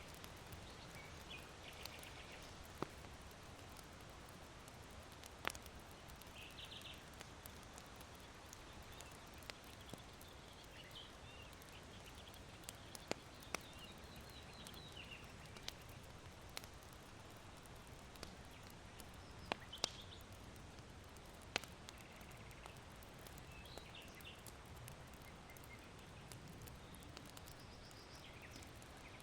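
Charcoal burning in an irori hearth, giving sharp, scattered pops and crackles every second or few, over a soft steady wind hiss. Small birds chirp faintly in short trills now and then.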